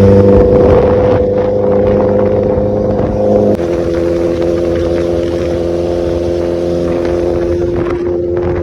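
Honda CBR1000RR Fireblade's inline-four engine running at steady revs, loud. Its note drops suddenly about three and a half seconds in, then holds steady again.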